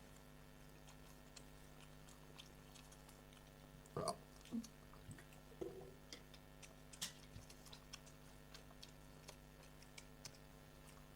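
Faint chewing and scattered small mouth clicks from someone eating, with a brief louder sound about four seconds in and a sharp click about seven seconds in. Otherwise near silence over a steady low hum.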